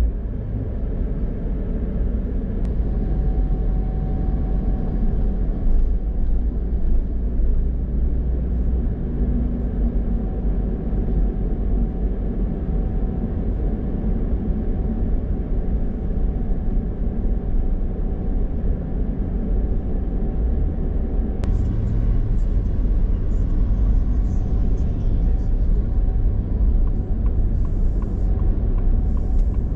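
Steady low rumble of a car being driven: engine and tyre road noise.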